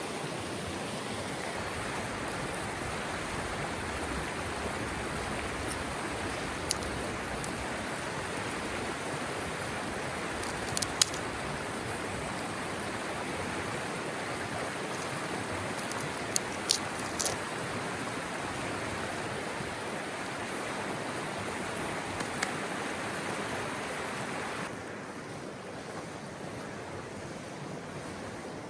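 Mountain stream running with a steady rush of water, broken by a few sharp clicks. Near the end the rush becomes quieter and duller.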